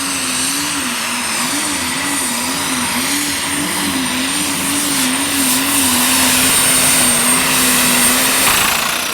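Turbocharged pulling tractor's engine at full throttle during a pull, with a steady high turbocharger whine over it. The engine note wavers up and down rhythmically, then settles. Near the end the whine falls away as the engine backs off.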